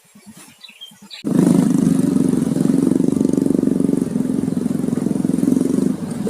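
A small engine running steadily at a constant speed, starting abruptly about a second in and easing slightly near the end.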